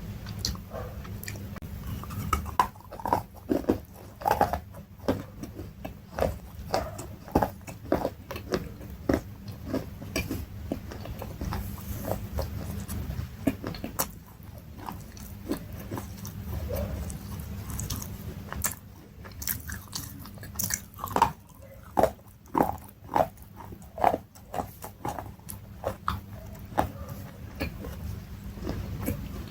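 Close-miked crunchy bites and chewing of brittle food, a run of sharp crunches about two a second, easing off midway and picking up again.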